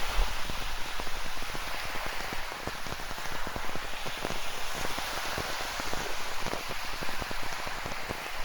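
Steady rain falling, with many close raindrop hits ticking over a constant hiss, and a brief low thump just after the start.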